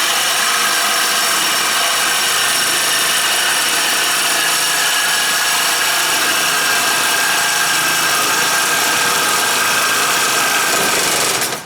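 A small motor, such as a power tool's, running steadily at constant speed with a high whine. It starts abruptly and cuts off abruptly near the end.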